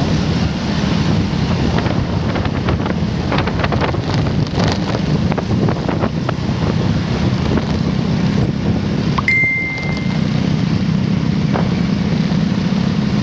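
Motorcycle engine running steadily through traffic, with wind on the microphone. About nine seconds in comes a short high-pitched beep.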